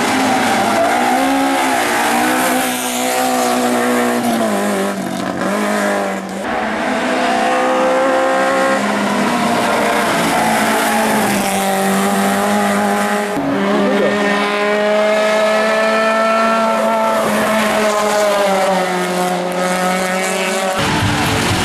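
Race car engine at hard throttle on a hill climb, its revs climbing and falling back again and again as it shifts gears and lifts for corners.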